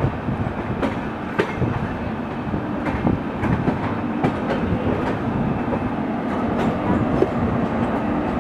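Coaches of the Swaraj Express, an Indian Railways express train, running along the track, heard from on board: a steady rumble with wheels clicking irregularly over rail joints. A faint steady tone comes in about halfway through.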